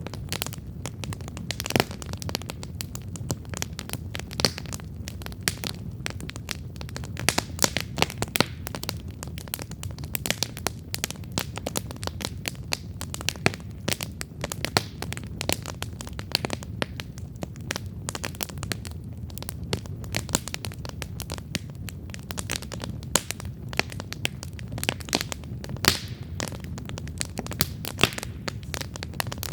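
Wood campfire crackling: dense, irregular pops and snaps from the burning wood over the steady low rush of the flames.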